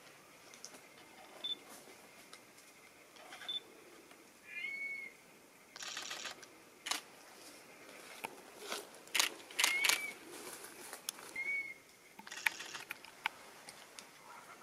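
Short whistled bird calls, single arched notes a few seconds apart. Over them runs camera handling noise: a brief rustling burst about six seconds in and another near the end, with a run of sharp clicks in between.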